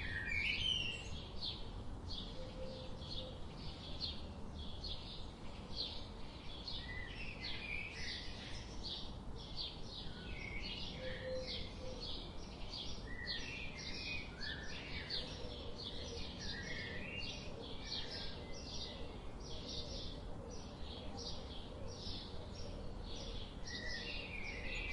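Songbirds chirping in quick, repeated short notes, about three a second, over a steady low rush of river water.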